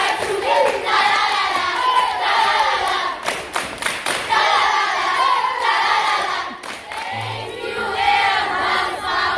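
A crowd of children's voices singing and shouting together, with a few sharp claps around the middle.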